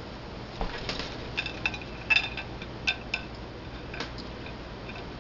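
Light clinks and taps of dishes and utensils, about eight of them spread over three seconds, some with a brief high ring.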